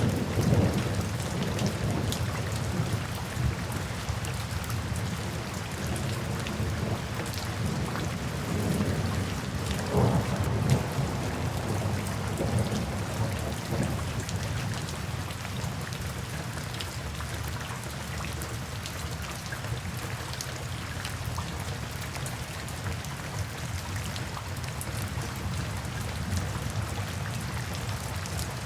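Steady rain falling, with scattered drop ticks over a constant wash. Low rolling thunder rumbles at the start and fades, then swells briefly again about ten seconds in.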